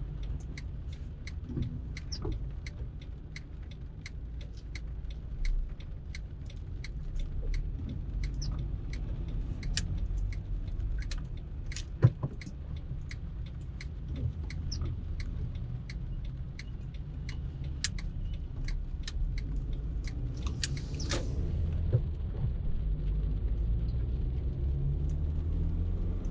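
A car driving in traffic: a steady low rumble of engine and road, with many small clicks and rattles scattered throughout and one sharp, loud click about twelve seconds in.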